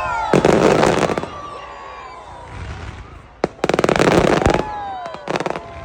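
Fireworks display: bursts of rapid crackling from aerial shells, the first within the first second and a longer one about three and a half seconds in, just after a single sharp bang. A short third crackle follows near the end.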